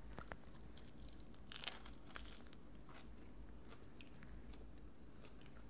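A person biting into a romaine lettuce leaf filled with chicken salad and chewing it: faint, crisp crunches of lettuce, celery and pecans, with a small cluster of crunches about a second and a half in.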